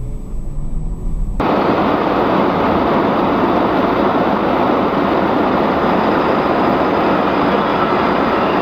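A vehicle engine rising in pitch, cut off suddenly about a second and a half in by a loud, steady rushing noise.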